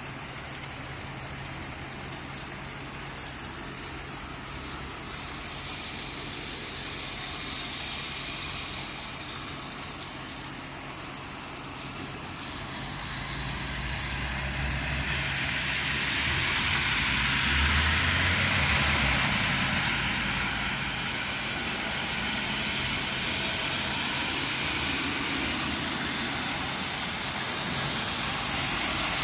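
Heavy thunderstorm rain pouring down, swelling louder about halfway through and staying loud, with a steady low hum underneath.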